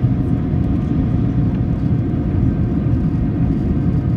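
Steady low cabin roar inside a Boeing 737-800 climbing out after takeoff, engines and airflow at climb power.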